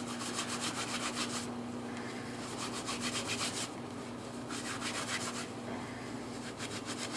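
Dry inner tree bark fibres being rubbed and worked between the hands, a scratchy rustling in several spells of quick strokes, breaking the strands down into fine tinder for a fire-starting bird's nest.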